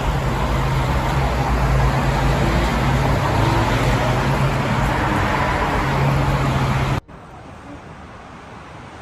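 Road traffic noise: a vehicle engine's steady low hum with road noise. It cuts off abruptly about seven seconds in, leaving a much quieter hiss.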